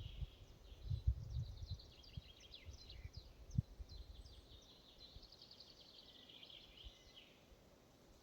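Small songbirds chirping in a forest: rapid runs of short, high, downward-sweeping notes. There are irregular low rumbles, like wind on the microphone, in the first few seconds.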